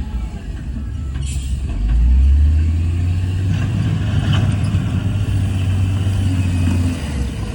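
Heavy diesel earthmoving equipment engine running with a deep rumble that grows louder about two seconds in and eases near the end. A brief hiss comes about a second in.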